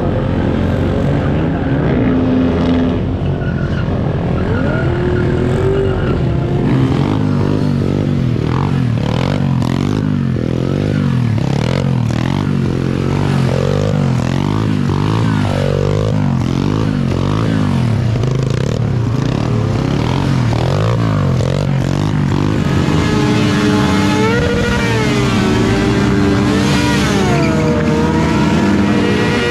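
Motorcycle engines revving up and down again and again during stunt riding. Near the end a sportbike's engine is held at high revs, steadier, in a smoky rear-tyre burnout.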